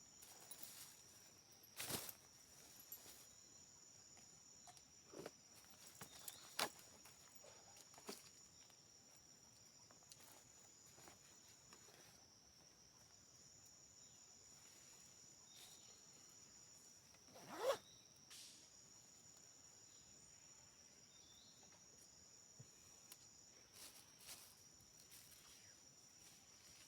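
Faint, steady high-pitched drone of rainforest insects, broken by a few sharp clicks and knocks, the loudest about eighteen seconds in.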